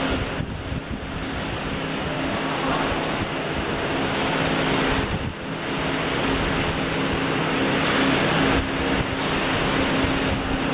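Electric arc welding: the arc gives a steady hiss over the steady hum of the welding machine, briefly dropping about half a second in and again about five seconds in.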